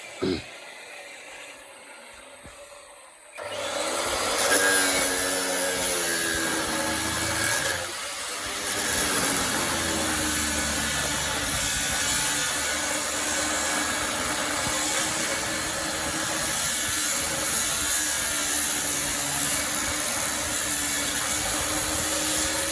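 A brief click, then about three seconds in an electric power tool starts and runs steadily under load, its motor pitch wavering, with a short dip about eight seconds in.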